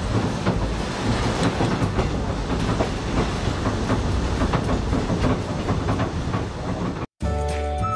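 Narrow-gauge children's railway carriage running along the track, with a steady rumble and the irregular clickety-clack of wheels over the rails. It cuts off suddenly near the end and music with a piping melody starts.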